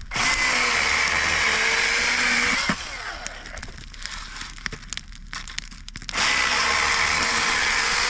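A small motor whirring in two spells of about two and a half seconds each, with a pause between them.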